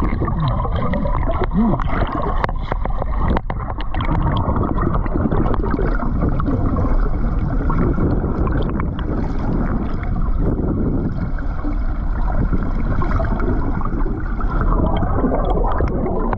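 Creek water gurgling and churning close to the microphone, steady and muffled.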